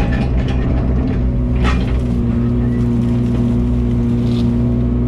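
Heavy vehicle's engine running steadily, with a short clatter about one and a half seconds in.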